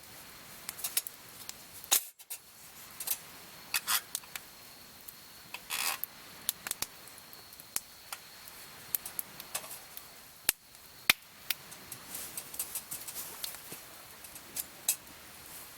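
Campfire wood crackling and popping: irregular sharp snaps, a few louder than the rest, with a faint steady high tone underneath.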